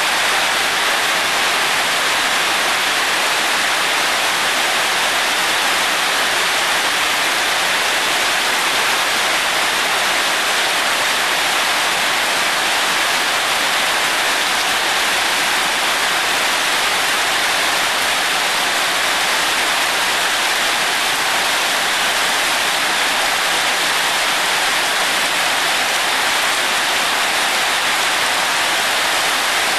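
Heavy rain falling steadily onto wet paving, a dense even hiss that never lets up.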